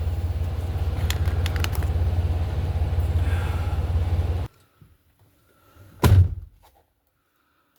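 Semi truck's diesel engine running with a steady low rumble, stopping abruptly about four and a half seconds in. A single loud thump follows about a second and a half later.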